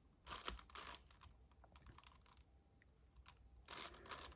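Faint clicking and rattling of a magnetic 7x7 Rubik's cube as its layers are turned, in two flurries, one near the start and one near the end.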